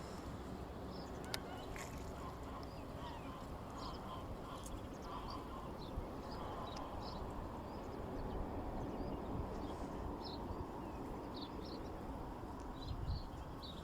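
Ducks calling with short, scattered calls over a steady low background noise.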